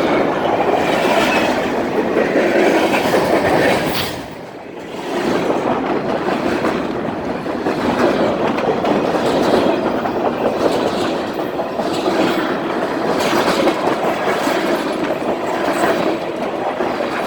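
Train rolling past close by, its railcar wheels clattering steadily over the rail joints, with a brief drop in loudness about four and a half seconds in.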